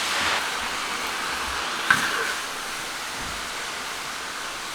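Food sizzling in a hot wok as a steady hiss, with one sharp clink about two seconds in.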